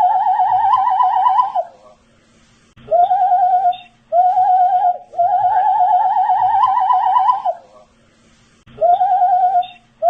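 A man whistling held notes with a fast wavering vibrato, in phrases of one to two and a half seconds broken by short pauses. The pitch creeps slightly upward through the longer notes.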